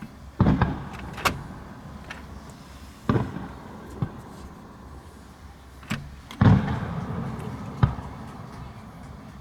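Fireworks bursting overhead: about seven booms and sharp cracks at uneven intervals, each trailing off in a rolling echo, the loudest about six and a half seconds in.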